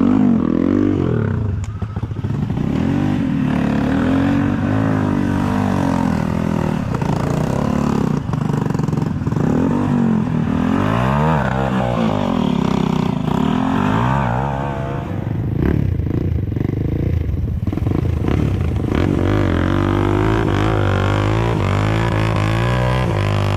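Enduro motorcycle engine being ridden off-road, its revs rising and falling over and over as the throttle is worked.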